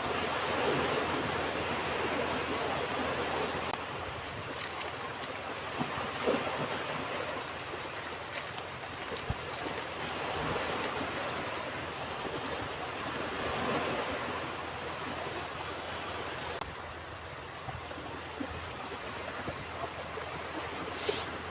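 Ocean surf: waves breaking and washing up a beach in a continuous rushing wash that swells and eases, with a brief sharp hiss near the end.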